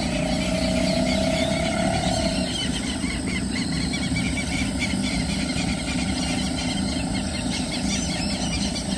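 Steady outdoor background noise, heaviest in the low end, with many short high chirps throughout. A faint engine-like hum rises slowly over the first two seconds or so, then fades out.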